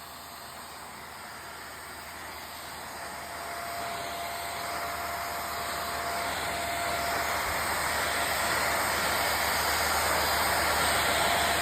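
Vacuum cleaner running: a steady rushing hiss that slowly grows louder, with a faint steady whine joining a few seconds in.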